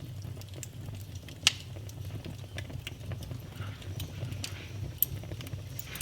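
Wood fire burning in a fireplace: a steady low rumble of flame under constant small crackles, with two sharp louder pops, about a second and a half in and again about five seconds in.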